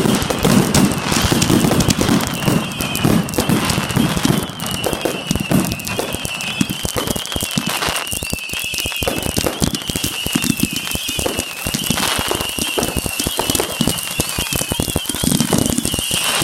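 Backyard consumer fireworks going off in a finale barrage: a dense, rapid run of cracks and pops, heavier booming in the first few seconds and again near the end, with a wavering high whistle running through it.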